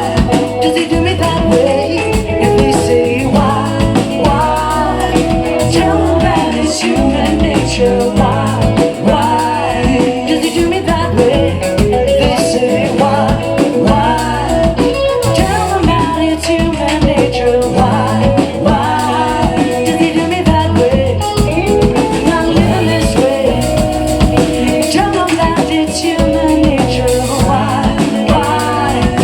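Live band playing the song with a steady beat, sustained chords and a melody line weaving over them, a voice coming in at times.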